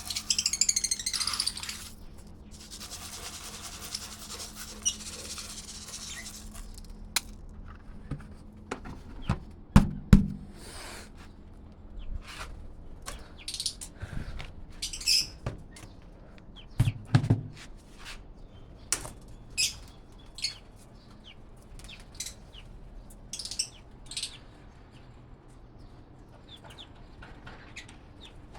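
Pet parrots giving short, scattered high chirps, with a denser burst of chirping near the start. There are a couple of low thumps, about a third of the way and just over halfway through.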